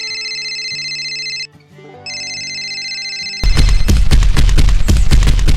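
Telephone ringing, two rings with a short gap between them. Then loud music with a heavy beat starts abruptly, about three and a half seconds in.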